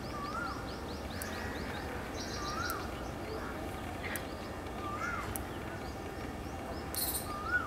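Wild birds calling over steady background noise. One bird repeats a short whistled note that rises and then falls, about every two and a half seconds. Fast runs of high chirps come near the start and again about two seconds in, and a brief harsh high-pitched burst comes about seven seconds in.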